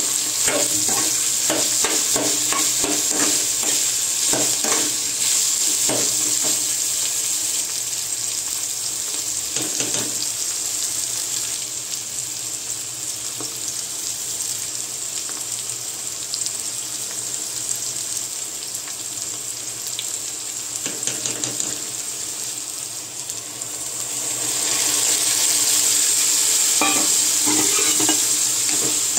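Food sizzling in hot oil in a pan while being stirred, with a spoon clicking and scraping against the pan, most often in the first part. Near the end the sizzling grows louder.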